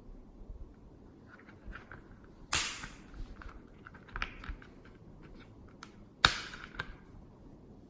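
Slime being handled and squeezed: small crackling clicks and squelches, with two loud sharp snaps about four seconds apart, each trailing off briefly.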